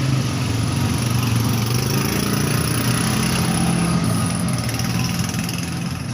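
A small engine running steadily at a low, even speed.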